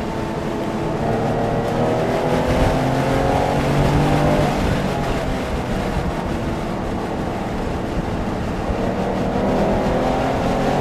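A Porsche engine at speed on a race track, heard from inside the car. The engine note drops over the first second or two, then climbs and holds with the throttle, and rises again near the end, under steady tyre and wind noise.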